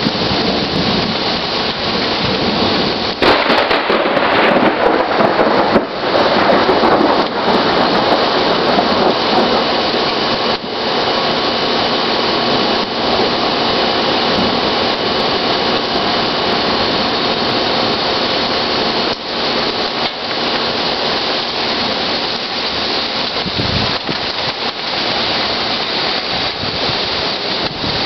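Heavy rain pouring steadily, louder for several seconds from about three seconds in, with a few brief sharp cracks.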